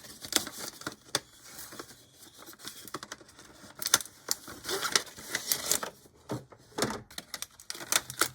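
Irregular light clicks and rustling as small plastic HO-scale model passenger cars and their packaging are handled, with a denser patch of rustling about halfway through.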